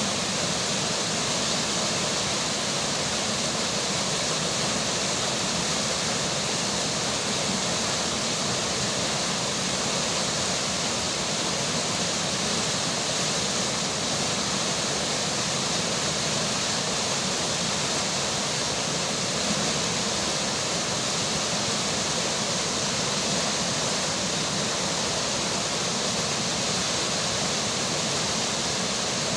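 Steady rushing of a flowing river with rain falling, an even, unchanging wash of water noise.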